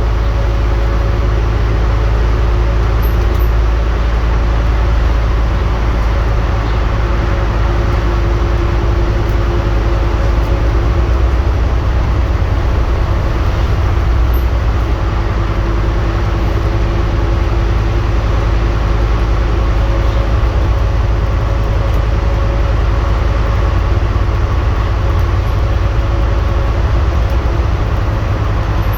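A Scania N230UD double-decker bus's diesel engine running under way: a steady low rumble with faint whining tones that drift slightly in pitch.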